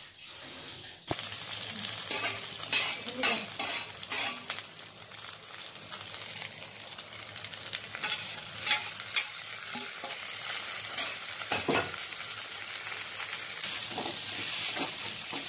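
Chicken pieces sizzling in hot mustard oil in a kadhai, with a spatula stirring and scraping them against the pan. The sizzling starts about a second in.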